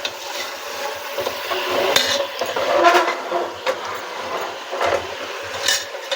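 Chicken pieces with onion and garlic being stirred in a frying pan, the food frying as it is turned, with a few sharp clinks of the utensil against the pan.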